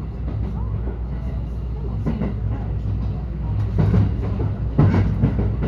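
Cabin sound of a JR West 223 series electric train under way: a steady low rumble of wheels and running gear, with two louder clatters about a second apart near the end.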